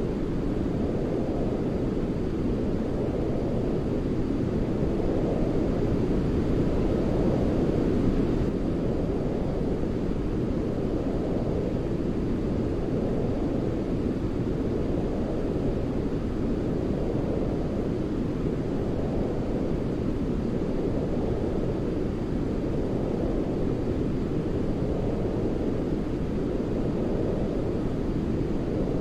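Steady sleep-aid noise of the deep, muffled brown-noise kind, swelling and easing gently about every three seconds.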